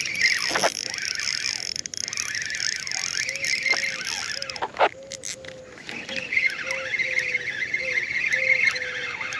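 Steady chorus of insects, a high shimmering buzz, with a run of short, even low notes, about two a second, from about three seconds in. Two brief swishing sounds come about half a second in and near the middle.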